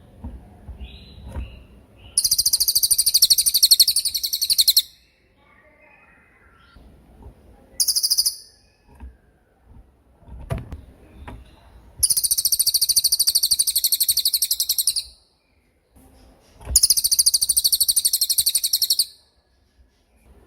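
A cililin songbird singing its 'tembakan' song: a very fast, high-pitched rattling trill of rapid repeated notes, given in three long bursts of about two to three seconds and one short burst near eight seconds, with faint softer chirps between.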